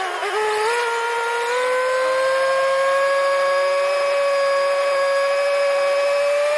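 Tractor-mounted backhoe running, a high steady mechanical whine. Its pitch climbs back up over the first two seconds after a dip, then holds with a slow rise, like an engine and hydraulic pump recovering under load.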